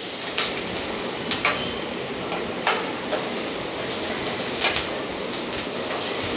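Onions, green chillies and garlic sizzling in hot oil in a metal kadai while a metal ladle stirs them, scraping and knocking against the pan with irregular clicks every second or so. The onions are being sautéed soft before the tomatoes go in.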